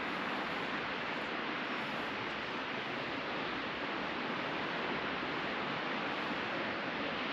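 Ocean surf washing onto the beach, a steady even rush of breaking waves with no single wave standing out.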